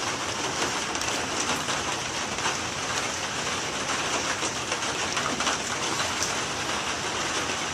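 Steady summer rain falling, an even hiss with scattered drips tapping.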